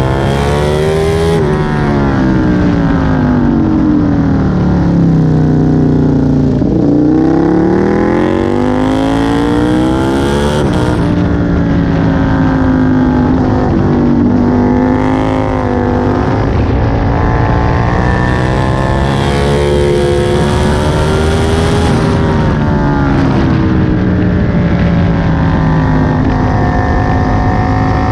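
Aprilia Tuono 1000's 60-degree V-twin heard on board at racing speed, its revs repeatedly climbing through the gears and dropping away under braking and downshifts.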